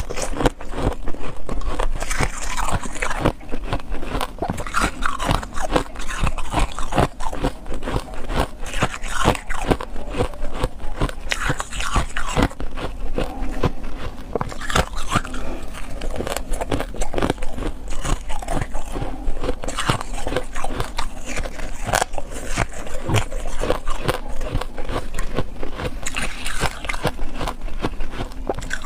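Ice being bitten and chewed: a dense, irregular run of crunches and cracks.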